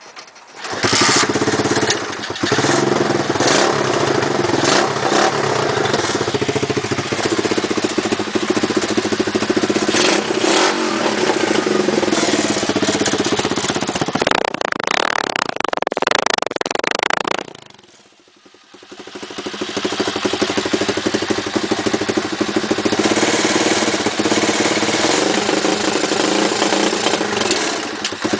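A 125cc pit bike engine starting, then running with blips of the throttle and a longer rev near the middle. It cuts out about two-thirds of the way through and then starts and runs again.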